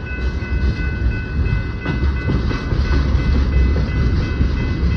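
Long freight train of tank cars rolling past: a heavy, steady rumble of the cars on the rails, with a faint steady high ringing tone over it and a single clank about two seconds in.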